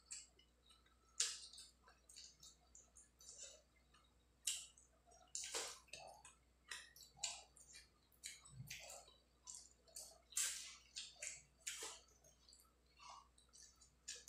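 Close-up wet eating sounds of a person eating rice and curry by hand: chewing and lip smacks, an irregular run of short moist clicks, with a few louder smacks.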